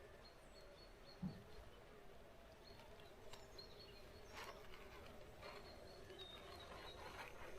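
Near silence: faint outdoor ambience, with one soft low thump about a second in and faint high chirps and ticks later on.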